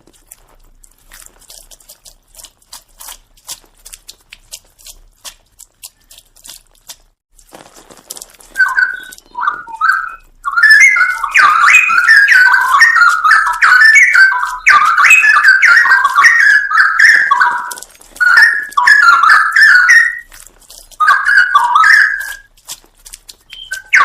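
Straw-headed bulbul (cucak rowo) singing loud, rich warbled phrases in bursts with short pauses, starting about a third of the way in after several seconds of faint clicking.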